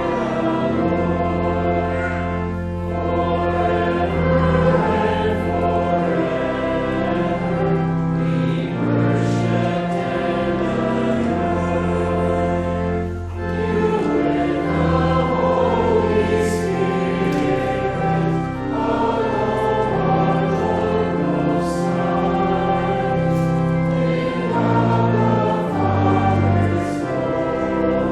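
A hymn sung by many voices together, over long, steadily held organ-like bass notes.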